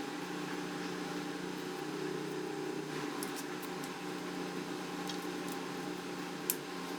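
Steady low electrical hum, like a fan or appliance running, with a few faint light clicks around the middle and a sharper click near the end.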